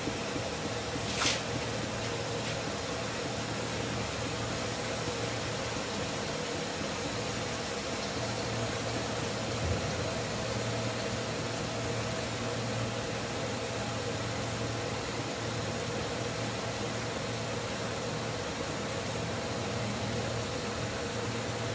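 Steady hiss of potatoes, onion and ground masala frying in a wok on an induction cooktop, over the cooktop's steady fan hum, with a single sharp click about a second in.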